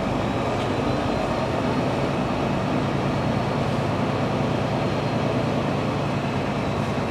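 Semi-truck's diesel engine running steadily at low speed, heard from inside the cab as an even low drone.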